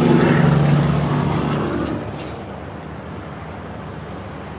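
A motor vehicle's engine running with a steady hum, loud at first and fading after about two seconds into a quieter background rumble.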